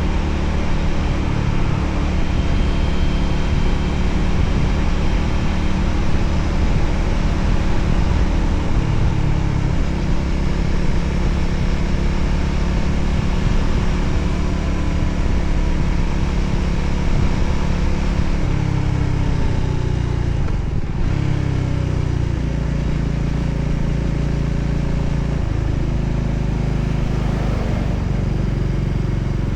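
Voge 300ACX motorcycle's single-cylinder engine running under way, its note shifting up and down several times in the second half.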